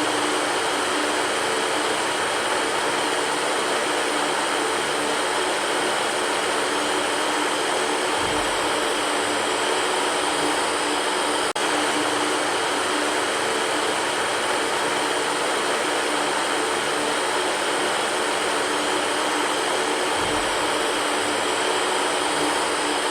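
Electric fan running steadily: an even rush of air with a faint low hum, dipping for an instant about halfway through.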